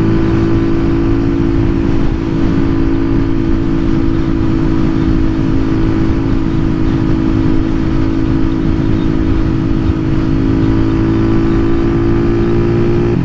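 Zontes Roadster R 125's single-cylinder engine running through a newly fitted aftermarket exhaust line, cruising under light load at steady revs with an unchanging pitch.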